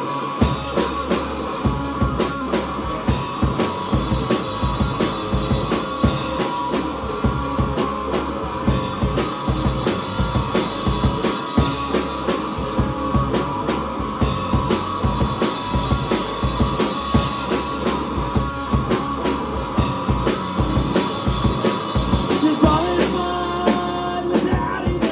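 Live rock band playing an instrumental intro on guitar, bass guitar and drum kit, with the drums hitting in a steady, driving rhythm throughout.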